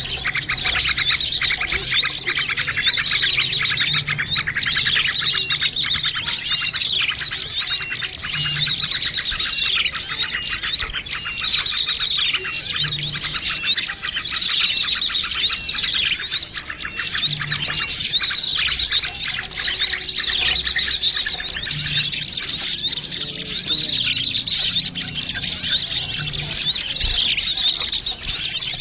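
A dense, unbroken chorus of many small songbirds chirping and twittering noisily over one another. This is a bird-lure (pikat) recording used to draw small birds in.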